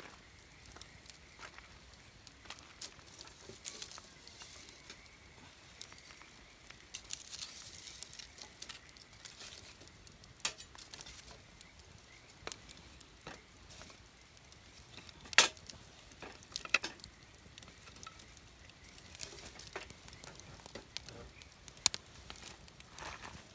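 Wood campfire burning, crackling with scattered sharp pops and a soft hiss; one loud pop about two-thirds through.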